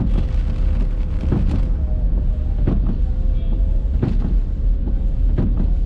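A car driving in the rain: a deep steady rumble of road and engine with rain noise, a faint steady whine, and a short knock repeating about every 1.3 seconds.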